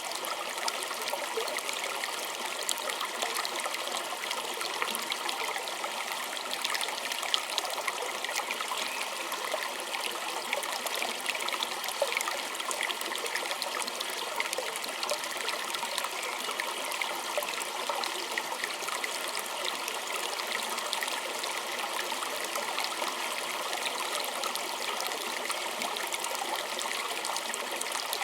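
Small creek flowing over stones, a steady trickling and babbling with many small splashes and no change in pace.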